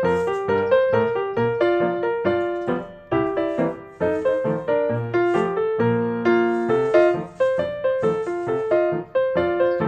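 Background piano music: a lively run of struck notes, several a second, each ringing and fading.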